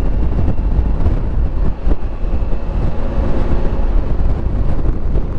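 Motorcycle under way, a Honda Africa Twin: steady wind rush and engine rumble picked up by a helmet microphone while riding.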